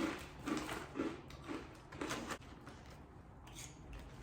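Close-miked crunching of corn nuts being chewed, about two crunches a second, dying away after about two and a half seconds.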